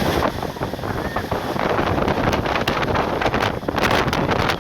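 Wind buffeting the microphone in irregular gusts over a steady rush of floodwater.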